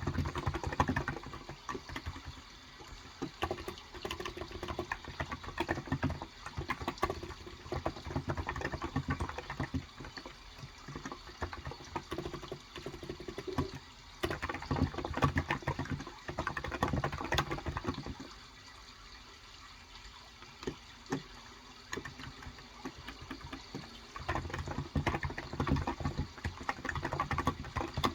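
Typing in bursts on a Cox Endeavor electro-capacitive (contactless) keyboard with 35 g switches, the keys clicking in quick runs and pausing for a few seconds about two thirds of the way through. Running water is heard underneath.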